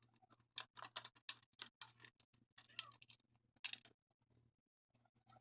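Faint, irregular clicks and taps, several a second, over a low steady hum.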